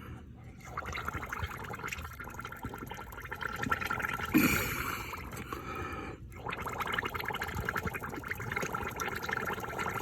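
Air blown by mouth through the fuel pump's hose bubbles and gurgles out through liquid at the leaking clamp joint, in two long blows with a short break about six seconds in. This is the air leak at the hose clamp that keeps the fuel system from holding pressure.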